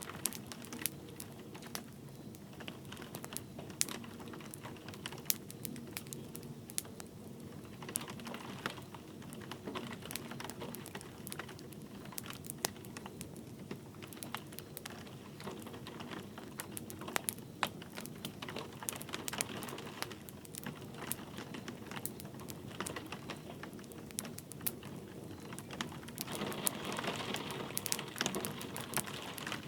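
Wood fire crackling, with sharp irregular pops and snaps, over a steady soft hiss of light rain. The hiss grows louder a few seconds before the end.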